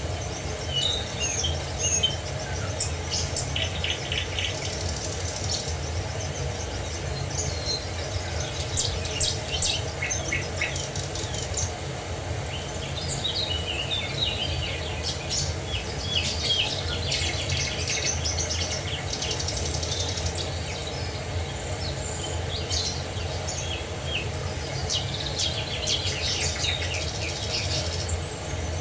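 Several small songbirds chirping and trilling, with short quick calls and rapid twittering runs overlapping one another, over a steady low rumble.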